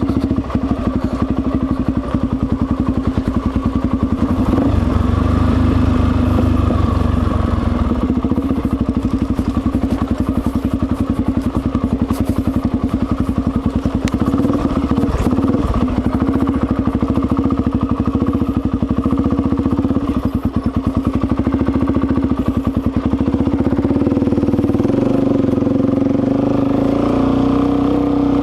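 Suzuki DR-Z400's single-cylinder four-stroke engine idling steadily. It is left running so the headlight stays on without draining the battery.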